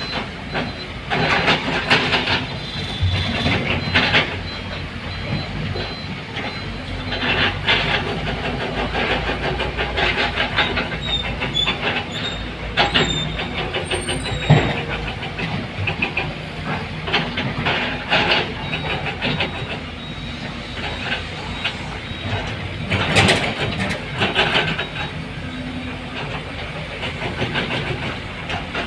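Heavy diesel earthmoving machinery at work, an excavator and dump truck: engines running with a steady low rumble, over it irregular metallic clanks and knocks, and hissing at times.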